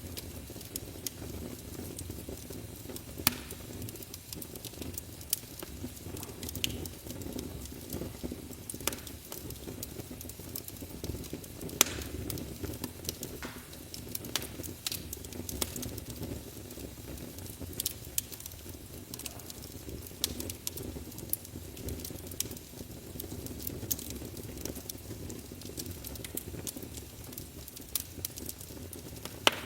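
Fire burning in a fireplace: a steady low rumble of flames with irregular crackles and a few sharp, louder pops.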